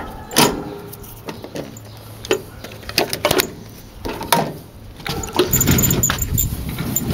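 Scattered knocks and clatter over a low hum, then a truck engine running from about five seconds in.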